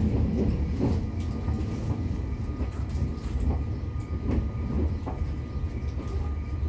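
Interior running sound of an E501-series electric train's motor car: steady rumble of wheels and motors on the rails, with clicks from the rail joints about once a second and a faint steady whine.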